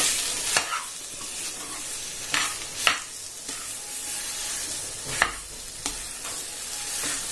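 Spiced potato filling sizzling in oil in a kadhai while a slotted steel spatula stirs it, with about five sharp scrapes and taps of the spatula against the pan.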